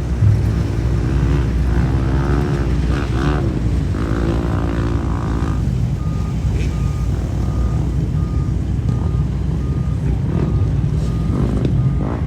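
Dirt bike engines revving and falling back over a continuous low engine rumble. About halfway through, a vehicle's reversing alarm starts beeping steadily, about twice a second.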